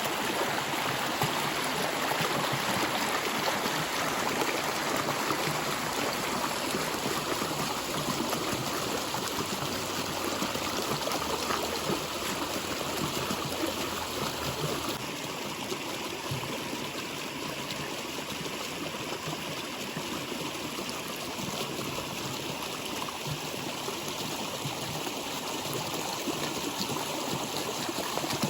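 Water flowing steadily in a stream, an even continuous rush of water that eases slightly about halfway through.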